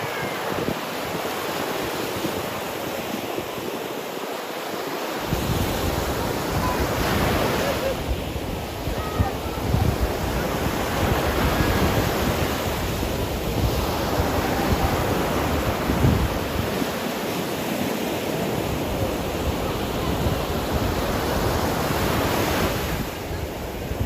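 Sea surf washing onto the beach, with wind buffeting the microphone; the wind rumble sets in about five seconds in and comes and goes in gusts.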